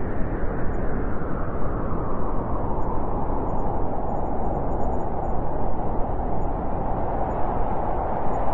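A steady, loud rumbling roar of noise with no distinct strikes or pitched sound, its higher part thinning so that it settles into a deeper roar.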